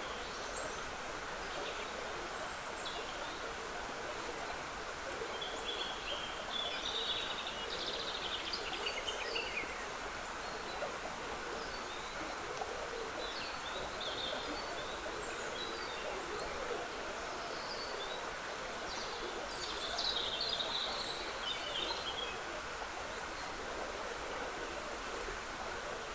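Trickling water running steadily, with birds singing over it in scattered phrases; the birdsong is busiest about five to ten seconds in and again about twenty seconds in.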